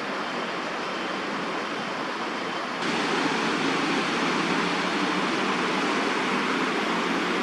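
Steady outdoor background noise, a dense even hiss with no distinct events, which steps up abruptly to a louder level about three seconds in.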